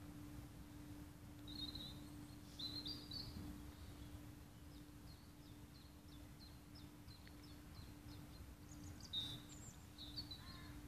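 Faint birdsong: a few short bursts of high chirping, with a run of quick repeated notes in the middle, over a low outdoor rumble and a steady low hum.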